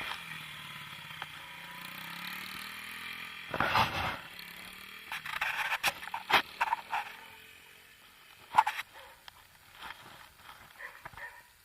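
Small motorcycle engine running steadily for the first few seconds. It is followed by a loud rushing burst about four seconds in, then scattered sharp knocks and clicks.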